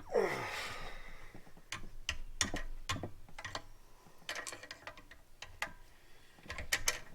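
Scattered metallic clicks and clinks of a long-handled T-wrench on the pump-mounting bolts of a pressure washer as the bolts are given their final tightening. A short falling tone sounds at the very start.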